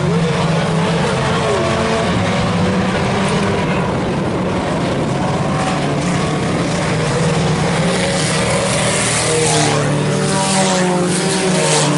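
A field of IMCA Sport Compact race cars, four-cylinder front-wheel-drive compacts, running laps on a dirt oval. Their engines make a steady, loud drone, and near the end several engine pitches waver up and down as cars pass.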